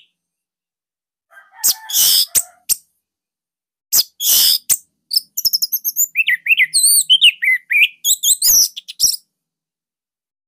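Orange-headed thrush (anis merah) singing: two short harsh bursts about two and four seconds in, then a run of rapid, varied high whistled notes for about four seconds before it falls silent near the end.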